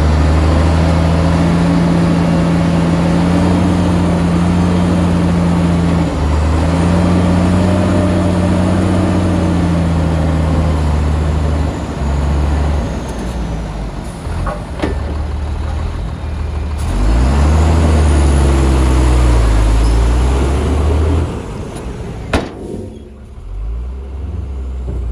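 Bulldozer's diesel engine working under changing load, its note rising and falling several times and easing off near the end. A single sharp knock is heard near the end.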